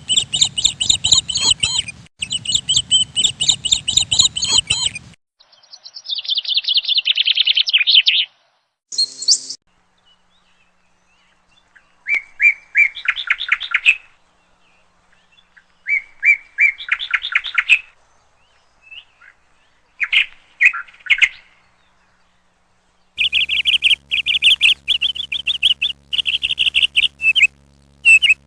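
Songbirds singing: a string of separate trilled and chirping song phrases, each starting and stopping abruptly with short silent gaps between them, from several spliced recordings.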